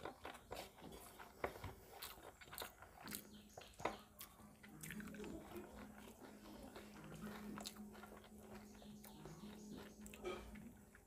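Close-miked mouth sounds of a person eating rice and fish curry by hand: faint chewing with scattered short wet clicks and smacks. A low steady hum comes in about three seconds in.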